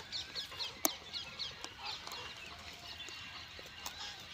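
A bird chirping in a quick series of short high calls, about four a second, thinning out in the middle and picking up again near the end. A single sharp click stands out about a second in.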